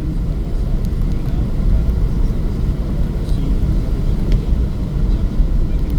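Car driving along a highway: a steady low rumble of engine and tyre noise, with a few faint ticks.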